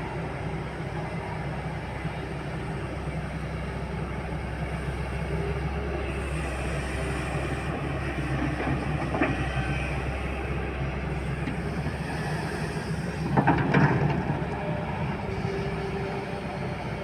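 Heavy loading machine's diesel engine running steadily under work, with a single knock about nine seconds in and a louder clatter of metal and material about thirteen seconds in.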